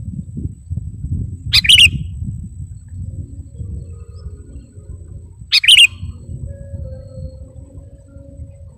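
Sooty-headed bulbul (kutilang) giving two short, loud calls about four seconds apart, over a steady low rumble.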